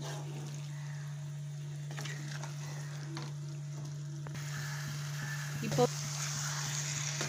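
Chicken pieces in onion-masala sizzling and frying in a nonstick pan while being stirred with a spatula, with a few light scrapes of the spatula against the pan. The sizzle grows louder about four seconds in, over a steady low hum.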